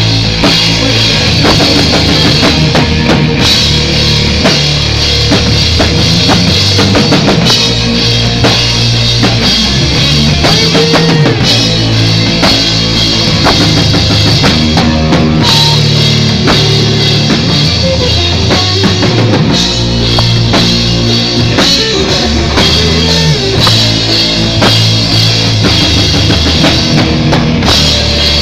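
A rock band playing live: drum kit with bass drum and cymbals driving a steady beat, with a bass line underneath and guitar.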